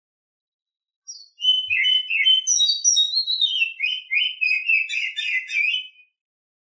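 Female oriental magpie-robin in breeding condition singing: a short note about a second in, then about five seconds of quick, clear whistled notes mixed with chatter, rising in pitch and then dropping, stopping shortly before the end.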